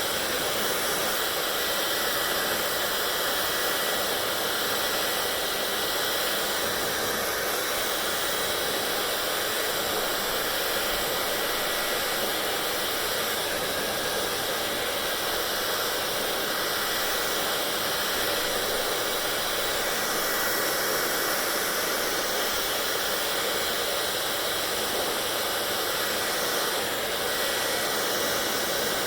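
Hair dryer running steadily: a constant rush of blown air with a faint steady high tone from the motor.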